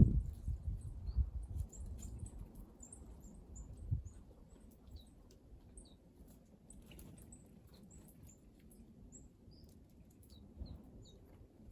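Small wild birds calling with many short, very high chirps, scattered throughout. A low rumble and a sharp thump at the start, and a single dull knock about four seconds in.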